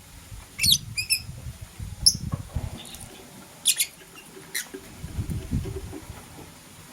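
Lovebirds giving short, sharp, high chirps, about five of them, one a quick stuttering series about a second in, over irregular low knocking and rustling.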